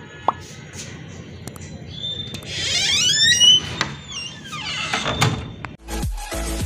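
Pet parrots calling with quick, high-pitched squawks that rise and fall, over a few light clicks. Electronic music starts near the end.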